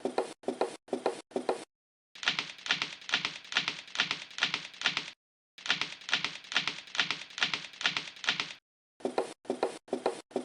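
Rapid rhythmic clacking, about three to four sharp strokes a second, in edited runs that stop dead several times.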